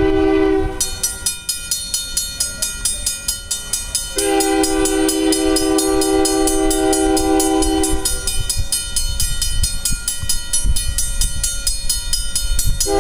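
Union Pacific locomotive's air horn sounding a chord in long blasts: one ends about a second in, another runs from about four to eight seconds, and a third starts near the end. Under it a bell rings fast and evenly, over the low rumble of the passing train.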